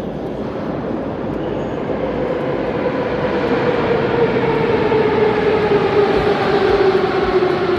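Metro train running through a tunnel, a loud rumble with a whine that falls steadily in pitch as the train slows toward the next station.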